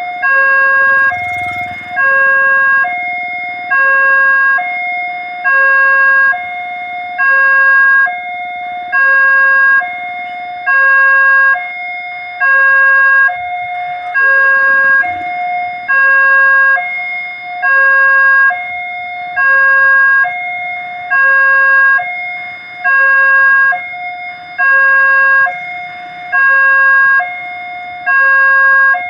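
Railway level-crossing warning alarm sounding continuously: an electronic two-tone signal alternating between a lower and a higher tone, one pair about every second and a half to two seconds, warning that a train is approaching. A faint low rumble passes under it briefly about a second in and again around the middle.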